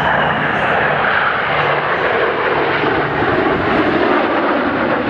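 Jet aircraft flying past in a display, a loud, steady jet noise with no break.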